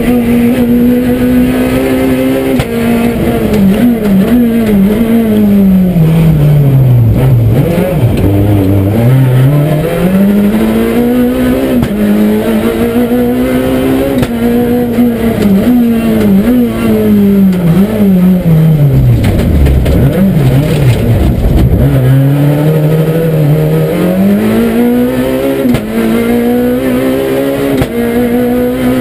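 Rally car engine heard from inside the cabin, revving hard under acceleration. Its pitch falls steeply twice as the car slows, about a third of the way in and again about two-thirds in, then climbs back as it accelerates away.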